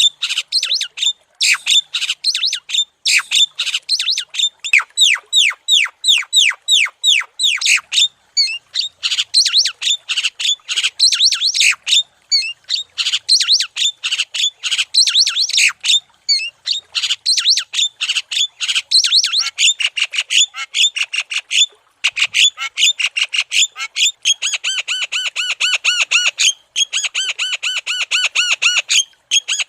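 Javan myna (jalak kebo) calling nonstop in fast series of harsh, squawking and chattering notes. Near the end it settles into a steady run of evenly repeated notes, about five a second.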